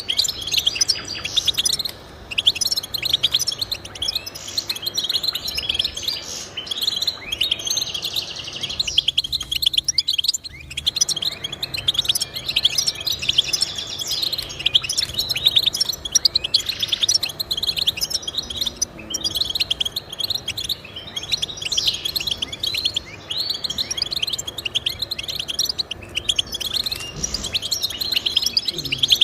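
Finch song: a rapid, continuous twittering of fast chirps and trills, with a brief lull about nine seconds in.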